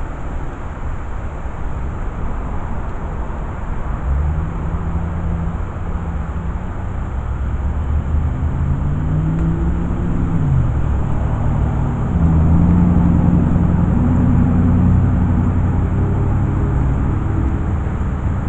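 Motor vehicle engine running, with a low rumble throughout. Its pitch rises and then falls about ten seconds in, and it grows louder from about twelve seconds on.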